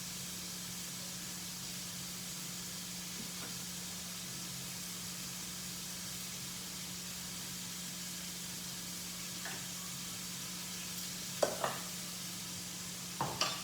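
Oil sizzling steadily in a frying pan as food fries, over a low steady hum. A few sharp knocks, like a utensil against the pan, come near the end.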